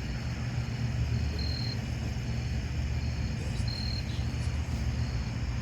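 Crickets or other insects chirping outdoors, short high-pitched notes repeating about once a second, over a steady low hum.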